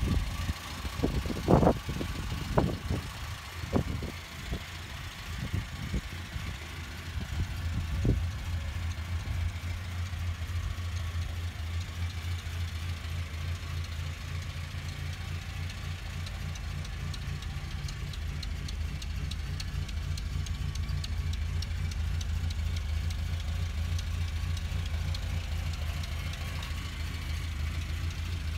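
1972 Lancia Fulvia coupé's narrow-angle V4 engine idling steadily, with a few sharp thumps in the first eight seconds.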